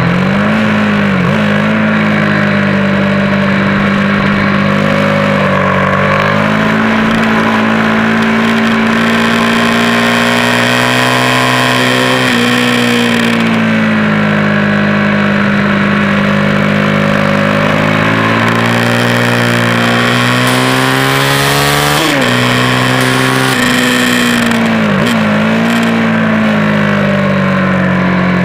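Track motorcycle's engine running hard at high revs, heard from on board with wind rush. The engine note holds fairly steady, dipping briefly and climbing back several times, most sharply at the very start and about three-quarters of the way through.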